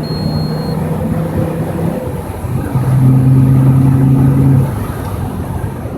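Alfa Romeo Spider 2.4 JTDm five-cylinder turbodiesel, DPF-deleted and remapped with a free-flowing exhaust, heard from inside the cabin under acceleration. It is a loud drone that holds one pitch, eases off around two seconds in, pulls louder again for about two seconds, then drops back near the end.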